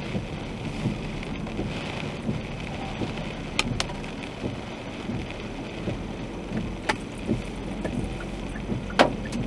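Steady rumble of a car driving through a rain and hail storm, heard from inside the cabin, with four sharp knocks of hailstones striking the car.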